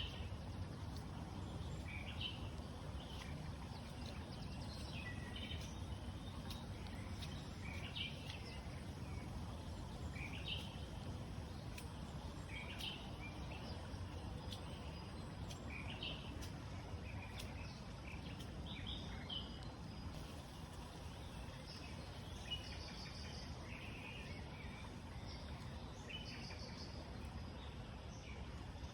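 Wild birds calling in short chirps every second or so, with a few higher trills in the second half, over a steady low background rumble of outdoor noise.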